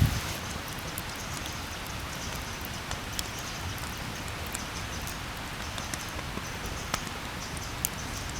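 Steady rain falling, with scattered drops ticking on a nearby surface.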